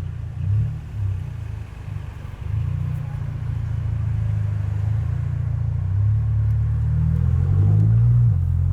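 Volkswagen Golf GTI Mk7's turbocharged 2.0-litre four-cylinder (EA888 third generation) and its loud exhaust giving a low drone while the car is driven. The drone wavers for the first couple of seconds, then settles and builds steadily louder.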